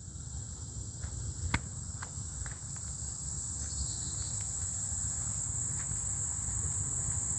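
Steady high-pitched insect chorus in woodland, with footsteps and a few sharp clicks like twigs snapping underfoot, over a low rumble.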